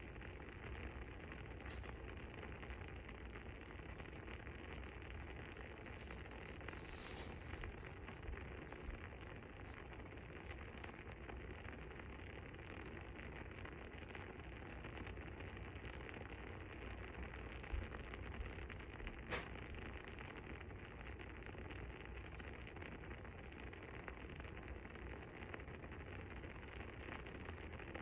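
Fire crackling softly: a steady low hiss with scattered small pops, and a few sharper pops a little past the middle.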